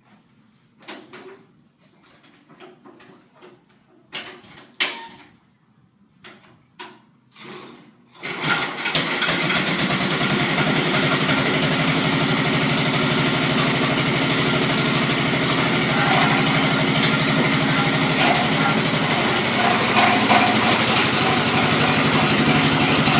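A few short clicks and knocks, then about eight seconds in a Tecumseh engine on a Sears garden tractor starts from cold, catching quickly and settling into a steady run.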